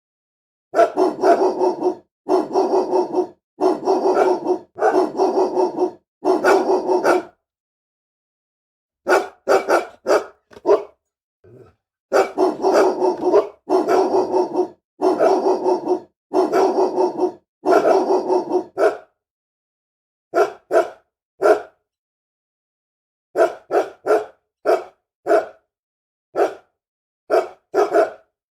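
Angry dog barking: runs of rapid barks each one to two seconds long, then short separate barks in the later part.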